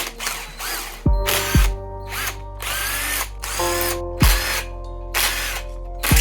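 Several short bursts of a power drill spinning up and back down, driving fasteners out during a dirt bike teardown, over background music with held chords and deep falling bass notes.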